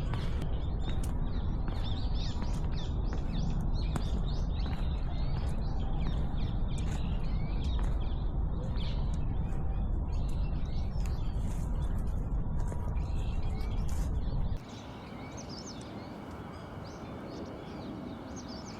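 Small wild birds calling with many short, high chirps over a steady low rumble. About three-quarters of the way through, the rumble cuts off abruptly and the chirps go on more faintly.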